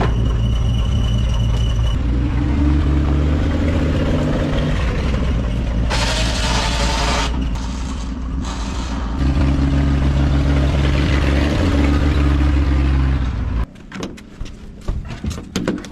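1955 Willys station wagon engine running steadily, with a brief hiss about six seconds in; it stops abruptly a couple of seconds before the end, leaving a few clicks and knocks.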